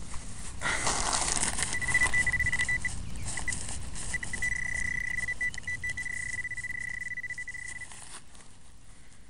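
Handheld metal-detecting pinpointer probe sounding its high, steady alert tone, at first in broken beeps and then held for about three seconds, over rough scraping noise that stops about eight seconds in.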